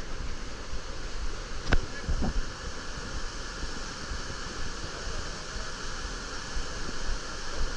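Steady rush of white-water river rapids, with a brief pitched cry about two seconds in.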